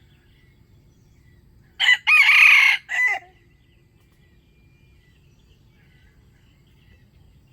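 Red junglefowl rooster crowing once, a short, clipped crow of about a second and a half in three parts, about two seconds in. Faint bird or insect chirping continues around it.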